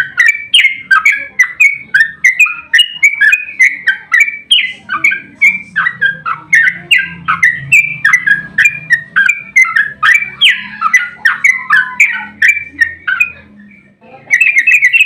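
Sooty-headed bulbul (trucukan) singing a long, unbroken run of short, quick notes, about three a second. Near the end it breaks off briefly, then resumes with a faster run of notes.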